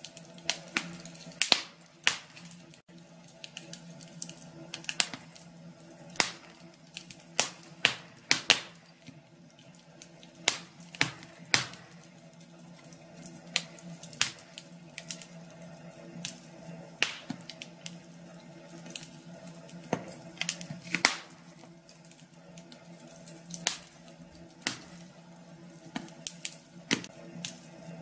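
Wood fire crackling in a fireplace: irregular sharp pops and snaps, several a second, some much louder than others, over a faint steady hum.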